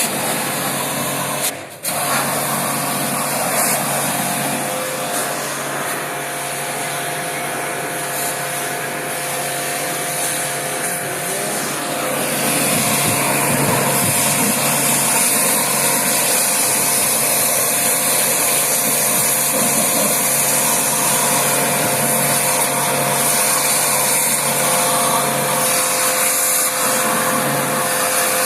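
A small electric cleaning machine running steadily, with a motor hum and a strong hiss. It cuts in abruptly, drops out for a moment near two seconds, and grows louder and hissier about twelve seconds in.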